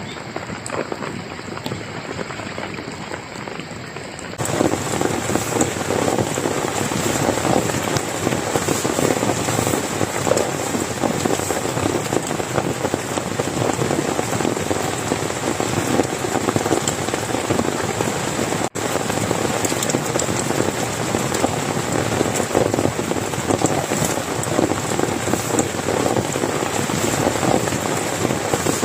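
Heavy rain pouring steadily, the drops pattering on a surface. It grows much louder about four seconds in and cuts out for an instant about two-thirds of the way through.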